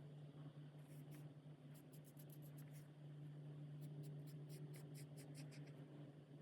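Alcohol marker tip rubbing across coloring-book paper in a run of quick, short, scratchy strokes, faint, over a steady low hum.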